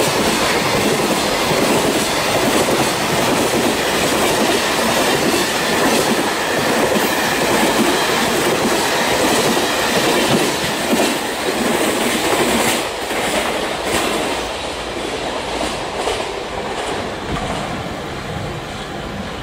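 Container freight train's loaded flat wagons rolling past at close range: a steady rumble of wheels with clickety-clack over the rail joints, easing off a little over the last several seconds.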